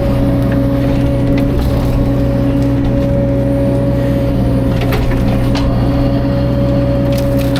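CAT 305.5 mini excavator's diesel engine running steadily, with a few sharp knocks and cracks of wood about five seconds in and near the end.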